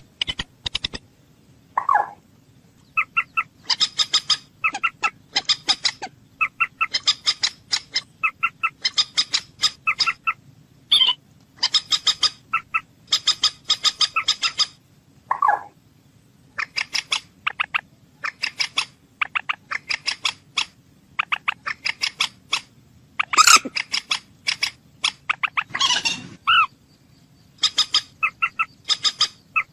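Common moorhen calling: repeated bursts of rapid, sharp clicking notes, each burst about a second long with short gaps between, and a few lower, drawn-out croaking notes in between, the loudest about 23 s in.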